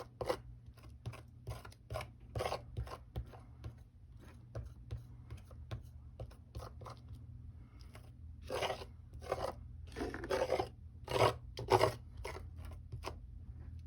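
Texture paste being spread and scraped across a stencil on card: a run of short scraping strokes, with a few longer, louder scrapes about nine to twelve seconds in.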